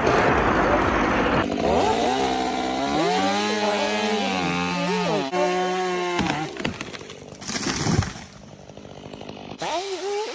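Chainsaw engine revving, its pitch rising and falling as the throttle is worked, after a rushing noise in the first second or so. It drops quieter about eight seconds in, then revs up again near the end.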